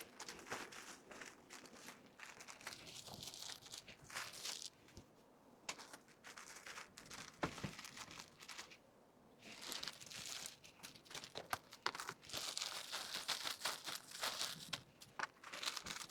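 Plastic packaging crinkling and rustling in irregular bursts as items are handled and packed, with scattered light clicks and taps.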